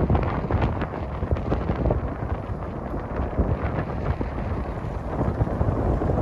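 Heavy wind buffeting the microphone: a dense low rumble with frequent short crackles and gusts.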